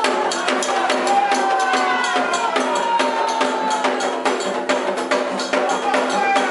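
Candomblé ritual music: hand drums and a struck bell beating a fast, steady rhythm, with voices singing a held, sliding chant over it.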